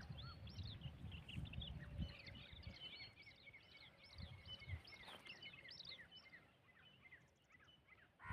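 Small birds chirping and twittering in a busy chorus of short, quick calls. A low rumble, like wind on the microphone, is heard in the first couple of seconds and fades away.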